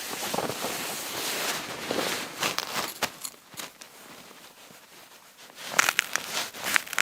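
Wind-like hiss, then scattered sharp clicks and rustles, with a dense flurry of clicks near the end.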